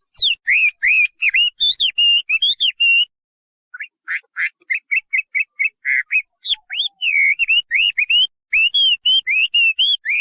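Chinese hwamei (melodious laughingthrush) singing: loud, clear whistled notes, many sliding up or down, repeated in quick runs, with a short pause about three seconds in.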